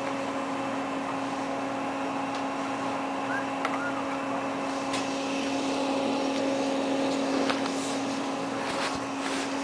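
Steady electrical hum of restaurant equipment, with a few light clicks and knocks.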